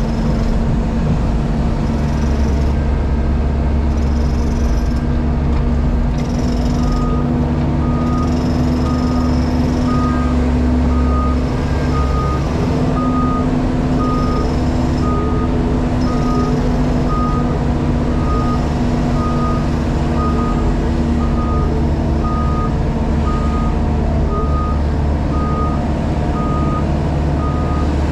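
Engine of a JCB Pothole Pro running steadily, heard inside the cab. About a quarter of the way in, the machine's travel or reversing alarm starts beeping regularly, roughly every two-thirds of a second.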